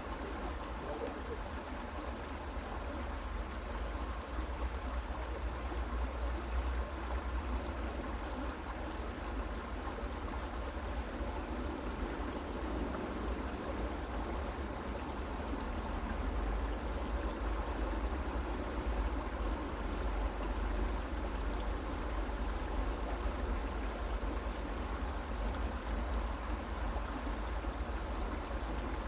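Creek water flowing and babbling steadily, over a deep low rumble.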